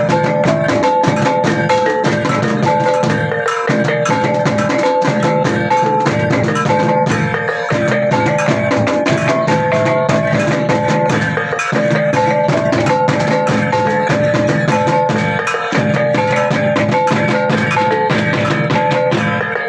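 Traditional percussion ensemble music: drums and percussion beating a dense steady rhythm under a repeating pattern of short pitched notes.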